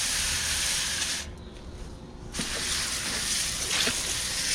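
Garden hose spray nozzle spraying water onto an air conditioner's condenser coils, a steady hiss that cuts out for about a second and then starts again.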